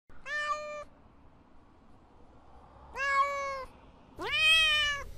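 Domestic cat meowing three times. The third meow is the longest and loudest, rising in pitch at its start, and cuts off suddenly.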